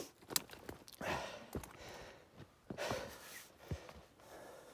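A man breathing hard from climbing a hill, with heavy breathy exhales every couple of seconds, and scattered footsteps in snow.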